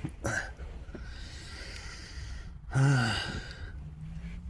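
A man breathing out heavily, then a short voiced sigh that falls in pitch about three seconds in.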